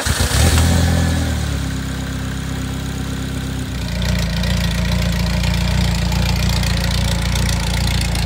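Toyota 2ZZ-GE 1.8-litre inline-four in a Lotus Elise firing on its first start after an intake camshaft replacement: the cranking ends as the engine catches, the revs flare briefly, then it settles into a steady idle. About four seconds in it is heard louder and deeper, from near the exhaust.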